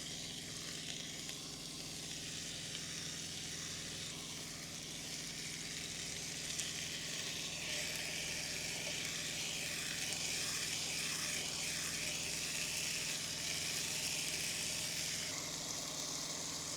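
Bacon frying in a pan, a steady sizzle that grows stronger about halfway through and eases slightly near the end.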